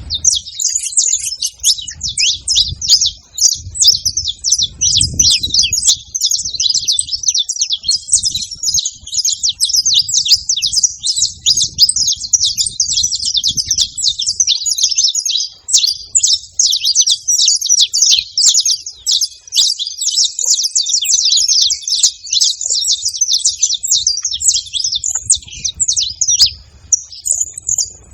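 Saffron finches chirping: an unbroken stream of quick, high chirps, dense and overlapping.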